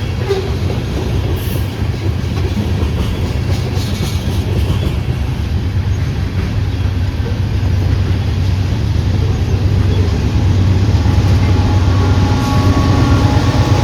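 A train running on the rails: a steady low rumble with wheel noise, growing louder toward the end, where a few steady tones join in.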